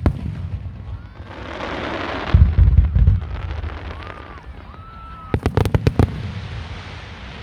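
Aerial fireworks display: a sharp bang at the start, then a hissing crackle, a cluster of deep booms about two and a half seconds in, and a quick run of five or six sharp cracks near the six-second mark.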